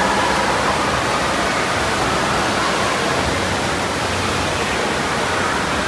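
Steady rushing of falling water, an even noise that starts abruptly and holds level.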